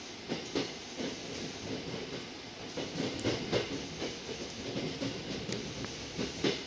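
Tokyo Metro 05 series subway car running, heard from inside the car: a steady rumble and hiss, with wheels clacking over rail joints in quick groups shortly after the start, in the middle, and again near the end.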